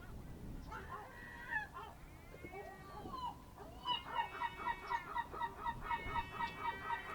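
Birds calling: a few varied calls, then from about four seconds in a fast, even series of repeated calls, about three a second.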